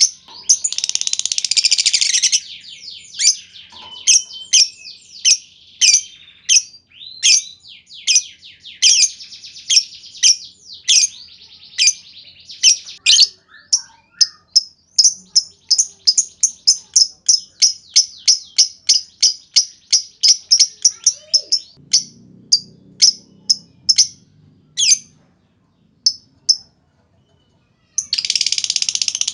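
Lovebird calling in the rapid, clipped "ngetik" (typing) style: a long series of sharp high chirps, a few per second. It opens with a dense burst of chatter, the chirps thin out with pauses in the last third, and a dense chatter starts again just before the end.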